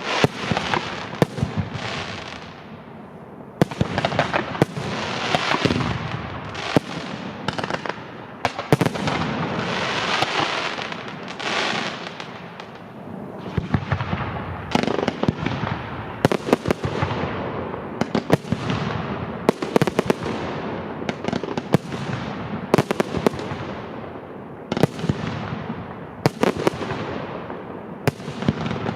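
Fireworks display: shells bursting one after another in a rapid, continuous run of bangs, with crackling and hissing trailing off after many of them.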